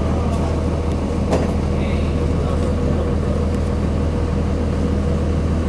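A 2002 Blue Bird CS transit bus's Cummins ISC six-cylinder diesel running at a steady speed, a constant low drone, with a brief rattle about a second and a half in.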